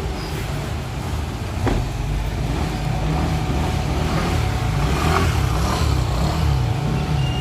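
Garbage truck's diesel engine running steadily with a low rumble, with one short sharp click about a second and a half in.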